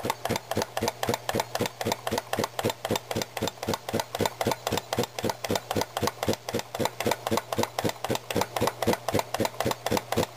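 Circa-1900 Brunner air compressor running, belt-driven by a small electric motor: an even, rhythmic beat of about five strokes a second over a steady low motor hum.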